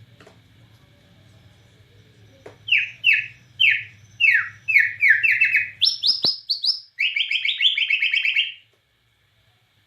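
White-rumped shama (Bornean murai batu) singing. After a couple of seconds with only a faint low hum, it sings a run of clear, downward-slurred whistles, then higher, quicker notes, then a fast trill that cuts off abruptly.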